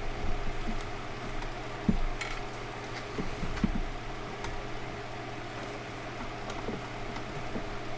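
A few short metallic clicks and knocks of the outboard gearcase being handled as the shift shaft is worked back into neutral, over a steady low hum.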